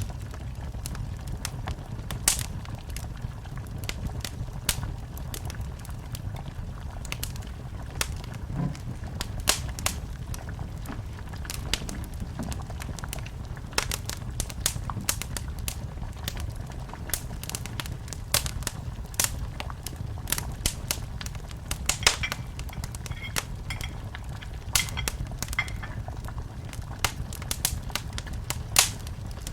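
Wood fire burning in a fireplace: a steady low rumble of flames with irregular sharp crackles and pops throughout, a few of them louder.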